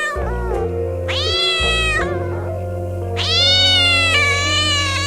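Domestic cat meowing: one meow about a second in, then a longer, drawn-out meow from about three seconds, over steady background music.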